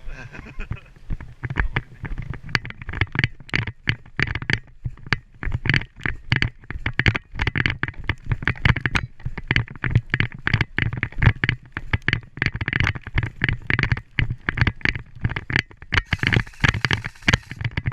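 Footsteps and rustling gear of a player moving over rough ground, picked up close by a body-worn action camera: irregular knocks and scrapes, several a second, with a brief brighter rush of rustling near the end.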